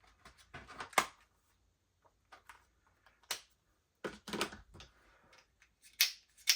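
Sharp plastic-and-metal clicks and clacks of an Armourer Works G18C gas blowback airsoft pistol being worked by hand, its parts moved and springing back into place. The clicks come scattered and irregular, loudest about a second in and near the end.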